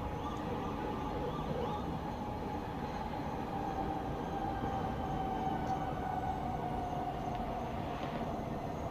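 Distant town traffic rumbling steadily at night, with one long tone that slowly sinks in pitch over several seconds.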